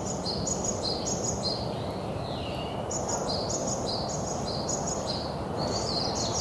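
A songbird singing runs of a repeated two-note phrase, a high note then a lower one, about twice a second. It pauses for about a second in the middle, then sings again. A steady low rumble of background noise lies underneath.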